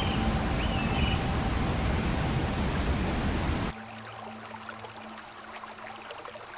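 Outdoor ambience: a steady rushing noise with a short chirp near the start, which cuts off abruptly about four seconds in to a quieter background with a low hum and faint ticking.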